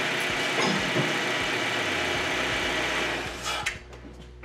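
Hyundai Tucson's DOHC 16-valve four-cylinder engine idling steadily, then switched off a little over three seconds in, the running noise dying away.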